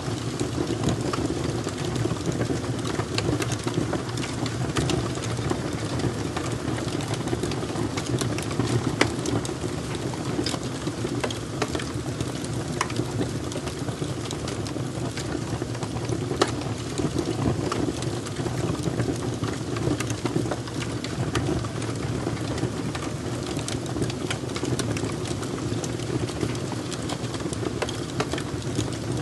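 Wood fire burning: a steady low rumble of flames with frequent sharp crackles and pops scattered throughout.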